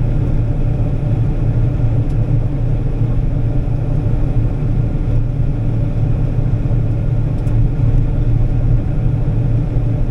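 Combine harvester running with a steady low rumble.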